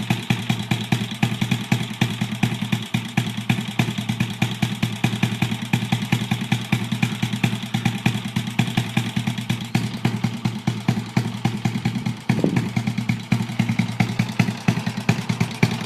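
Honda Chaly minibike's Wave 100 single-cylinder four-stroke engine idling with a steady, even putter. The idle sounds smooth and stable, which fits the seller's description of the engine as tight. A short change in the beat comes about twelve seconds in.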